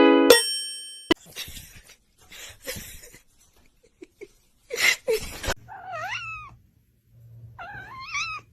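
A cat meows twice in the second half, each call swooping up and down in pitch. Before that a plucked note and a bright ding die away, followed by scattered rustling and knocks.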